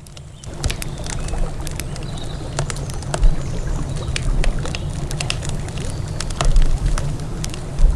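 Wood campfire crackling, with frequent sharp pops and snaps, over a steady low rumble.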